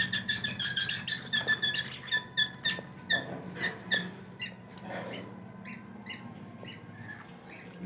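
Lovebirds chirping in quick, high, short calls, dense for the first four seconds or so, then thinning to a few fainter chirps.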